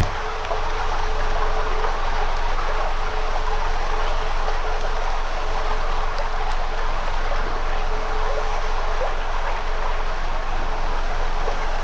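Campfire crackling with a steady hiss, small pops scattered through it, over a faint steady hum.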